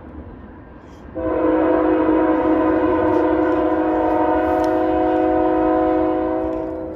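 Locomotive air horn sounding one long, loud blast of several notes at once, starting about a second in and fading near the end, over the low rumble of the train.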